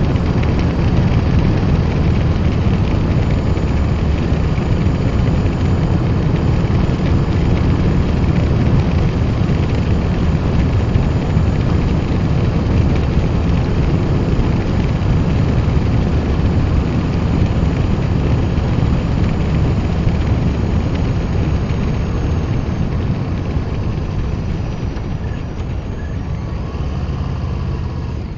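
Milwaukee-Eight 117 V-twin of a Harley-Davidson Low Rider ST running at a steady cruise through TAB Performance slip-on exhausts with medium baffles, on a Screamin' Eagle stage 1 tune. It is heard from a mic in the handlebar bag behind the fairing, and it gets a little quieter over the last few seconds.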